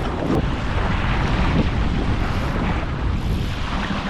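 Strong wind buffeting the microphone over water rushing past a 29er racing dinghy's hull, a steady loud rush with a heavy low rumble.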